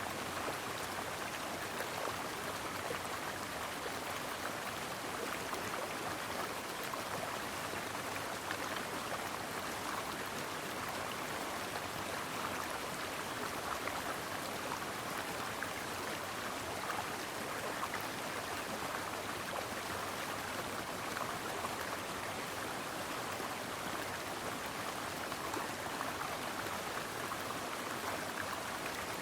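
A shallow stream flowing over rocks: a steady, even rushing and babbling of water.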